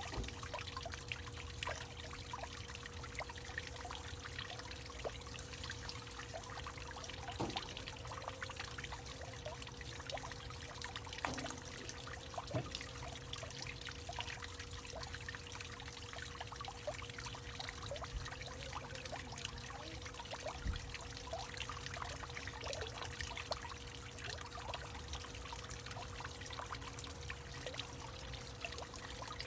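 Water trickling and dripping in a hollowed-out tree: a steady, dense patter of small plinking drops.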